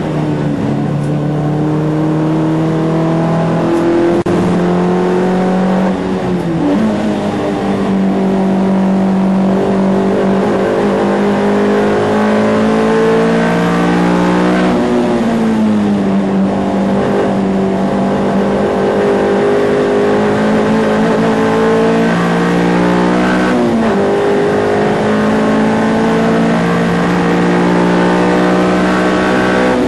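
Ford Fiesta race car's engine at racing speed, heard from inside the car, running hard under load. Its pitch drops and climbs again about seven, fifteen and twenty-four seconds in, the longest fall near the middle as it slows and comes back on the power.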